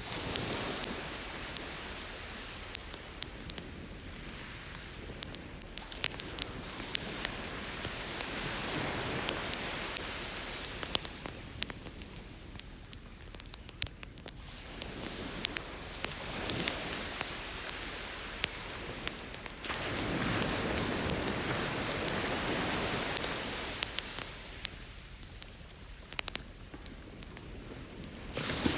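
Campfire crackling, with many sharp pops of burning wood, over ocean waves washing ashore. The waves rise and fall in slow swells every several seconds, the loudest about two-thirds of the way through.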